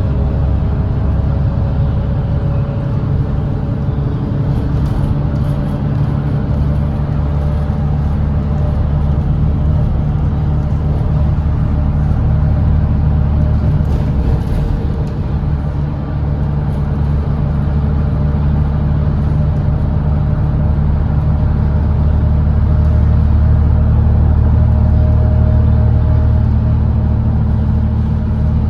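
Volvo B8RLE double-decker diesel bus's engine running steadily at highway speed: a deep, even drone with a faint higher whine above it. The level dips briefly about halfway through and grows a little louder near the end.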